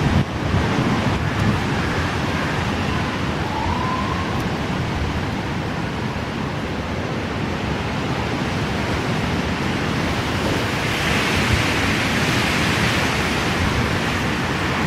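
Strong wind buffeting the microphone, a steady loud rushing with heavy low rumble. A brief faint rising whistle comes about four seconds in.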